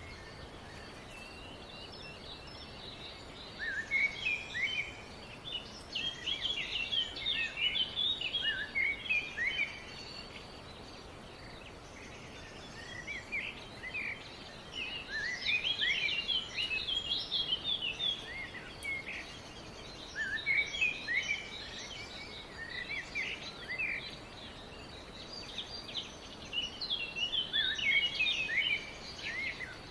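Birds singing: phrases of quick chirps and short rising and falling notes, each a few seconds long with brief pauses between them, over a steady background hiss.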